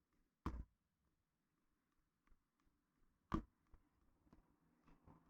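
Two sharp metallic taps about three seconds apart, each ringing briefly: a hammer driving parts into an engine block during assembly.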